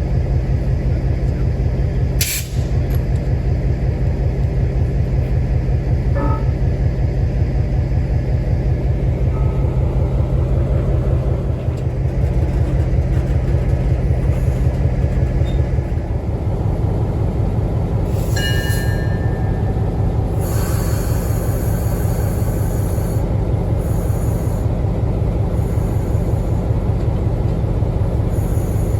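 A train running: a steady, loud low rumble of engine and rolling stock. The engine's low note changes about 16 seconds in, and brief high tones sound around 18 seconds.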